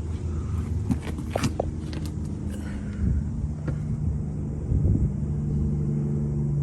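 Pickup truck engine running with a low, steady drone and rumble, with a few sharp clicks in the first two seconds.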